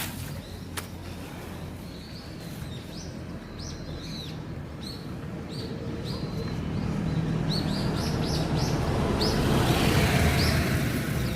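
A small bird chirping over and over in short, high calls. A rushing noise with a low rumble swells under it, loudest near the end.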